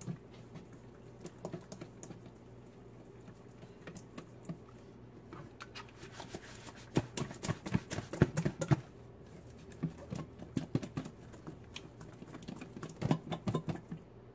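Lidded bowl being shaken with raw chicken pieces and dry seasoning inside, giving quick clusters of knocks and taps, loudest in a bout about halfway through and another near the end.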